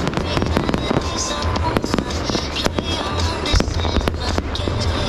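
Fireworks display: a rapid, unbroken barrage of bangs and crackles, several every second.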